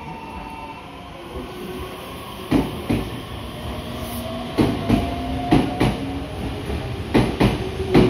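Electric train moving along the next track beside a platform: its wheels clack over the rail joints in quick pairs, starting about two and a half seconds in and repeating every second or two, over a steady rumble and a steady motor whine.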